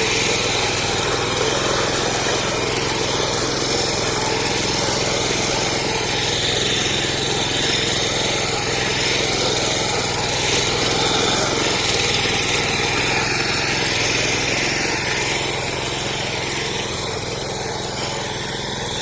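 Small petrol power weeder's engine running steadily under load as its tines churn the soil, easing slightly near the end.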